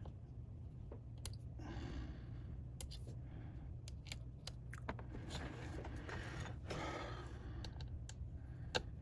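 Faint, scattered small clicks and scratchy scraping of a precision screwdriver and small tools on a MacBook Pro's logic board as screws are taken out and flex cable connectors are lifted, over a low steady hum.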